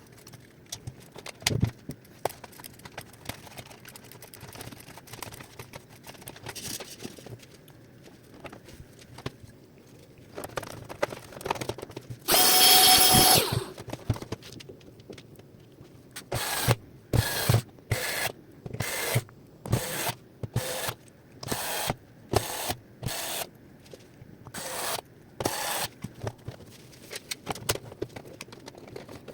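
Small electric screwdriver whirring in short bursts while driving screws on a robot vacuum's housing. One longer run comes about halfway through, then about a dozen quick pulses a little under a second apart, with light handling clicks in between.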